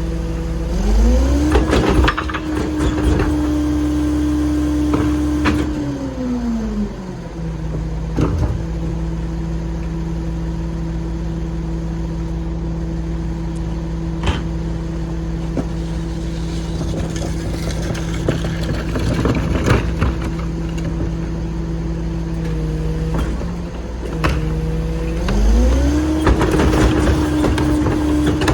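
Mini rear-loader garbage truck's engine idling, then revving up about a second in and holding the higher speed for several seconds to drive the hydraulics before dropping back to idle, with a second rev-up near the end. Clanks and bangs of carts and the packer are heard now and then over the idle.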